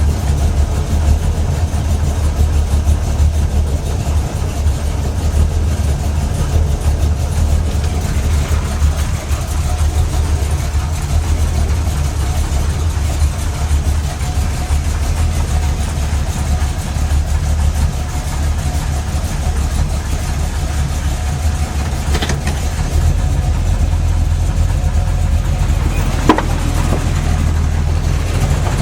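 Small-block Chevy 350 V8 with aluminum heads idling steadily in gear, carrying the knock its owner is trying to diagnose: it stayed when each plug wire was pulled, so he doubts a rod knock and suspects piston slap or a flexplate knock. Two sharp ticks come near the end.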